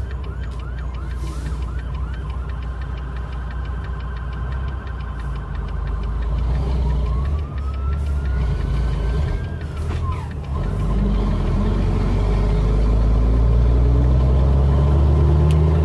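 Emergency vehicle siren: a quick run of short yelps, then a long wail that rises and drops away about ten seconds in, over a steady low truck engine rumble that grows louder near the end.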